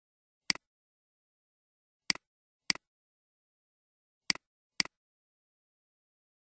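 Computer mouse clicking, five sharp clicks spaced irregularly, some in quick pairs.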